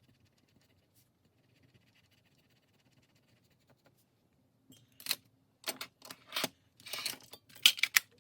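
Nearly quiet at first, then from about five seconds in a run of short crinkling rustles as paper bills and cash envelopes are handled.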